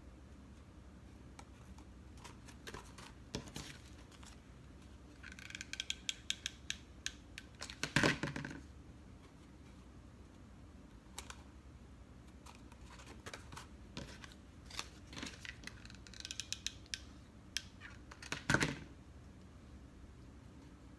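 Small handling sounds of cardstock being worked and glued by hand: scattered clicks, two spells of quick crackly ticking, and two louder knocks, about eight seconds in and near the end.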